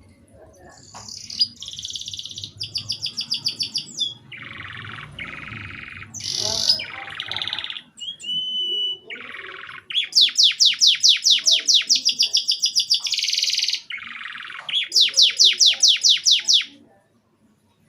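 Domestic canary singing, a run of phrases each made of one note repeated rapidly in a trill, about six or seven notes a second, switching pitch from phrase to phrase. The song stops near the end.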